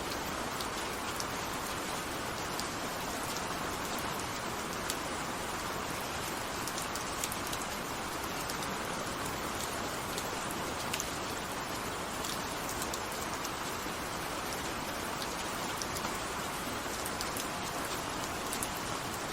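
Steady, even rain, with scattered individual drops ticking through the hiss.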